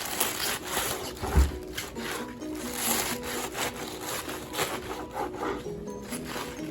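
A knife cutting through a bunch of washed mustard greens on a cutting board, in repeated uneven slicing strokes with one heavier knock against the board about a second and a half in.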